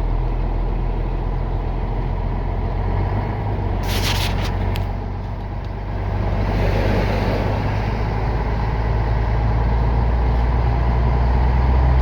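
Truck engine running steadily with road noise, heard from inside the cab while driving, with a short hiss about four seconds in.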